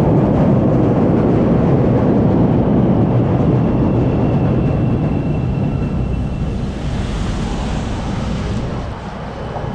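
Loud, steady low rumble of wind and city street traffic, with a brief hiss about seven seconds in.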